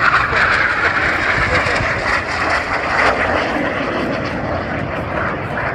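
Aermacchi MB-339 jet trainers flying past in a display, a loud, steady jet rush that is strongest at the start and slowly fades.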